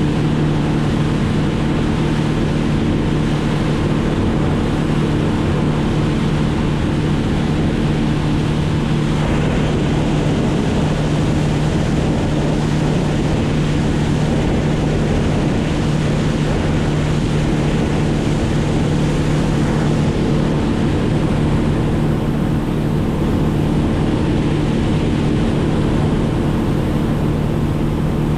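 A small engine running steadily at constant speed, a loud even drone with wind or water noise behind it.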